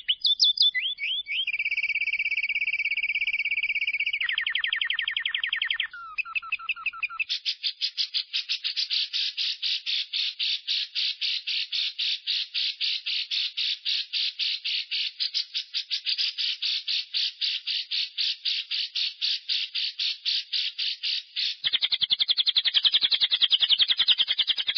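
Lovebird's long 'ngekek' call: a rapid chattering trill of evenly repeated high notes kept up for about fourteen seconds, after a few seconds of shorter calls and a steady high whistle-like note, turning denser and louder near the end.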